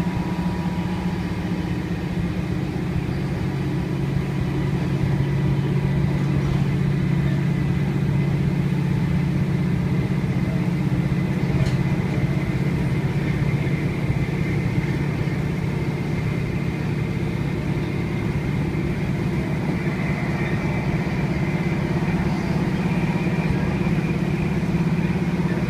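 Class 156 diesel multiple unit's underfloor Cummins diesel engine running steadily under power, heard from inside the passenger saloon.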